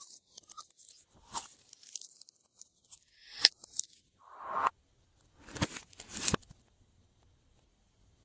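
Slime being pressed and worked by hand, giving irregular crackling, crunchy pops and sticky snaps, with a short rising squelch a little past the middle and a few sharper pops after it; it stops about six and a half seconds in.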